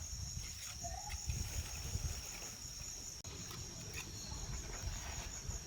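Insects trilling steadily in a high, finely pulsing chorus, over a low rumble and a few faint knocks; the sound drops out for an instant about three seconds in.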